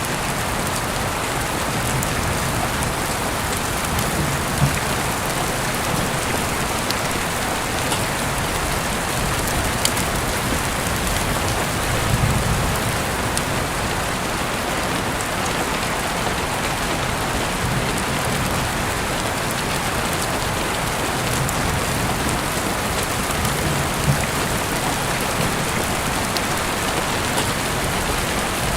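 Heavy rain falling steadily, a dense even hiss with a few sharper drop hits standing out now and then.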